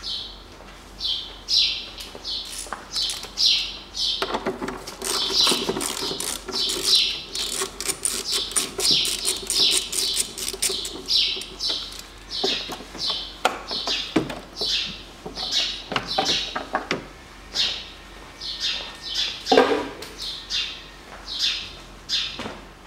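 Small birds chirping over and over, two or three short calls a second. Among them come several bursts of air hissing, the longest lasting several seconds: compressed air blowing dust out of a car's air-filter housing.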